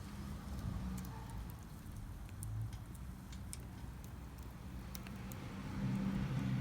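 Wood fire burning in a Solo Stove Campfire stove, with scattered sharp crackles and pops. A low rumble runs underneath and swells near the end.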